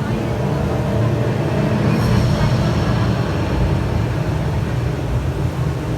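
Steady low rumbling roar of a large indoor waterfall, with a brief high ringing tone about two seconds in.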